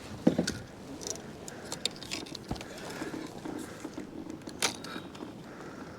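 Fishing rod, reel and tackle being handled to cast out a weighted catfish rig: scattered small clicks, knocks and rattles, with a louder knock just after the start and a sharp click near the end.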